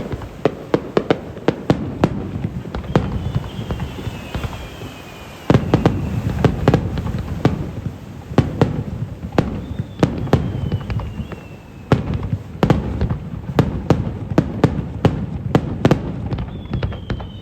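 Aerial fireworks bursting: a dense run of sharp cracks and crackles, with a heavier rumble of shells coming in about five seconds in. Three long falling whistles sound over the bursts.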